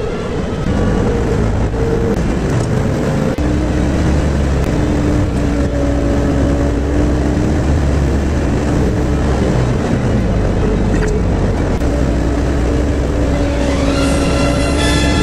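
1965 VW Bus's air-cooled flat-four engine and road noise while driving: a steady low drone whose pitch shifts a few times.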